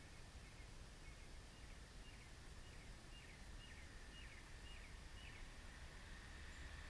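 A bird calling in a run of about a dozen short, repeated notes, roughly two a second, which stop near the end. Behind it are a faint steady high drone and low rumble.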